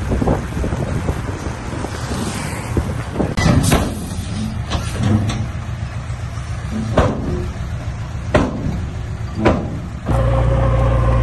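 Heavy diesel vehicle engine running rough and noisy, with several sharp knocks or clanks every second or two. Near the end it cuts to a louder, steadier engine drone.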